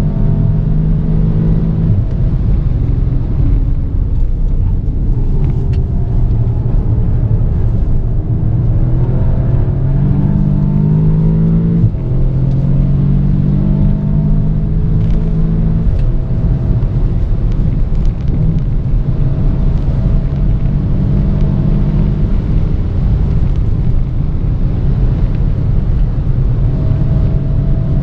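Audi S3 8V's ABT-tuned turbocharged four-cylinder engine under full throttle, heard from inside the cabin. It pulls hard near 6,000 rpm, and its pitch steps down at the DSG gear changes.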